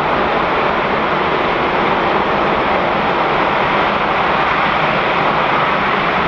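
LE-9 liquid-hydrogen rocket engine, the first-stage engine of the H3 rocket, firing during a ground combustion test: a loud, steady rushing noise that holds an even level without a break.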